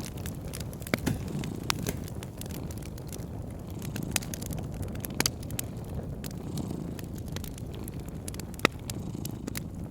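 Wood fire crackling with several sharp pops, the loudest near the end, over a low steady rumble of a cat purring.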